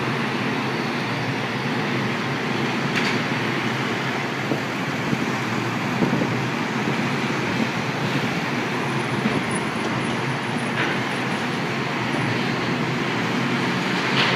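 Heavy construction machinery running steadily during demolition and digging, with a few faint knocks.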